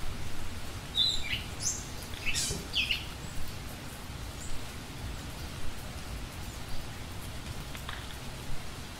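A few short, high bird chirps over a steady hiss of outdoor background noise, clustered about one to three seconds in, with fainter scattered calls later.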